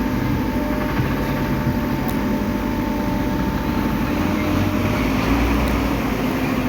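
An engine running steadily, a low motor hum with no clear change in speed.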